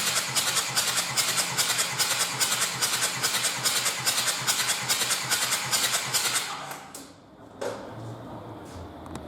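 Starter cranking a Kia Sportage 2.0 CRDi D4EA four-cylinder diesel engine in a steady rhythm of about four pulses a second, without the engine firing. The cranking stops about six and a half seconds in, and a single thump follows about a second later.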